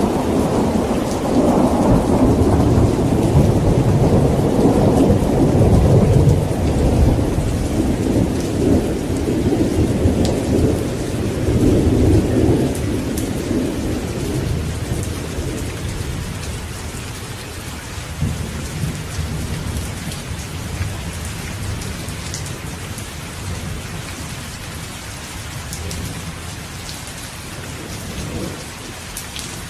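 Heavy rain falling steadily, with a long roll of thunder rumbling over it that fades away about halfway through, leaving the rain alone.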